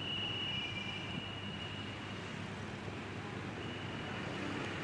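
Gajayana passenger train with its diesel-electric locomotive heard at a distance: a low, steady rumble with a thin, high, steady squeal. The squeal stops about two seconds in and starts again near the end.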